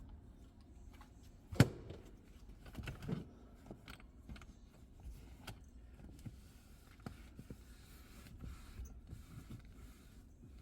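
Scattered light clicks and knocks, the sharpest about a second and a half in, over a faint low steady hum.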